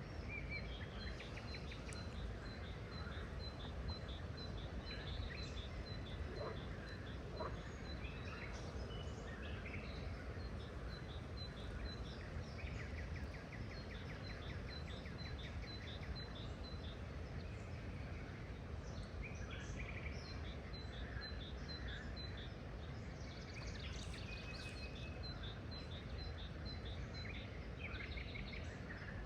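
Several wild birds calling and chirping, one repeating a short high note about three times a second in two long runs, over a steady low background rumble.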